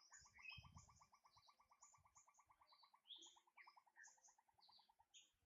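Faint birdsong: a fast trill of short rising notes, about ten a second, fading out near the end, with high chirps over it.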